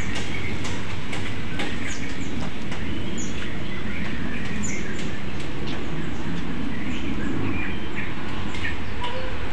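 Birds chirping in short, scattered high calls over a steady low rumble of background noise.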